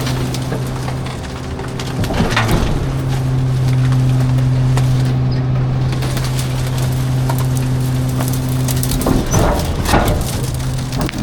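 Garbage truck running with a steady low hum, broken twice by crunching and clattering of refuse, about two seconds in and again near the end.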